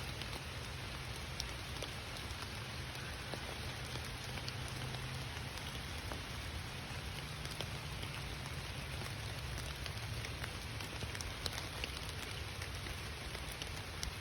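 Steady rain falling, with many small, sharper drop hits scattered through it.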